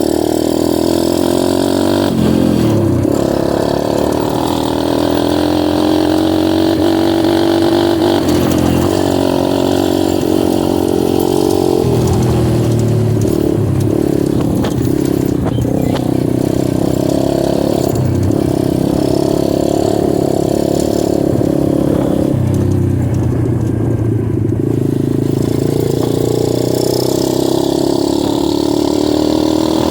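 Dirt bike engine running under way, its pitch rising and dipping again and again as the throttle opens and closes.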